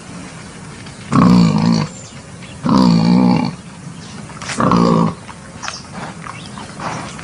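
Wild boar calling: three short pitched calls, each under a second, coming about a second and a half apart. A recording of this kind is used as a lure to draw wild boar in for hunting.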